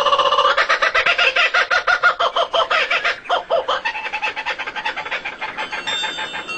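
A bird calling in a rapid run of short repeated pitched notes, loud at first and fading over the last couple of seconds.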